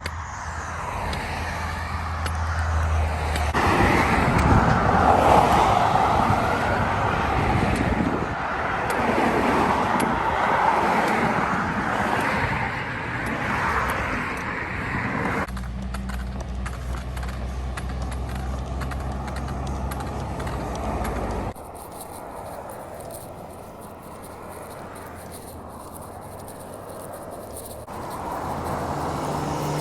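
Road traffic: vehicles passing along the road, a broad rushing noise that swells and fades. The sound changes abruptly several times, in short clips joined by hard cuts.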